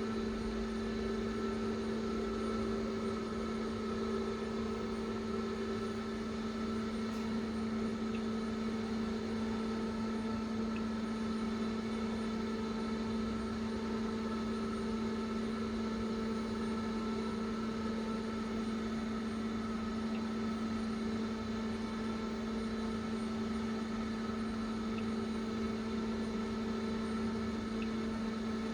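Steady machine hum from the SAFAN servo-electric CNC press brake standing powered up, holding several fixed tones without change, with a few faint ticks.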